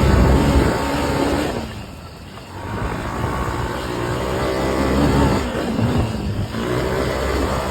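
Yamaha TTR250's single-cylinder four-stroke engine running in a low gear on a trail ride, revs rising and falling; it drops off almost to idle about two seconds in, then picks up again.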